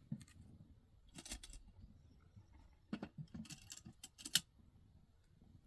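A handful of short, crisp clicks and crackles at irregular intervals, the loudest about four seconds in: handling or working sounds.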